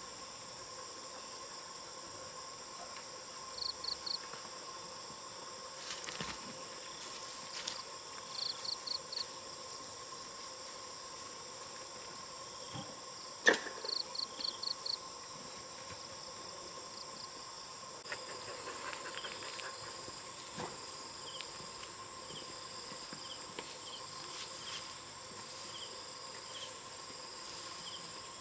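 Insects calling in a steady, high-pitched chorus. Short bursts of three to five quick chirps come every few seconds, and there is one sharp click about halfway. About two-thirds of the way in, a louder high trill joins with faint regular ticks.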